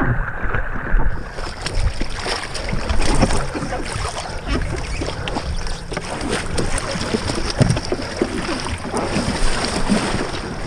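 Water splashing and knocking around a small boat as it is moved through a shallow stream, with uneven knocks and wind rumbling on the microphone.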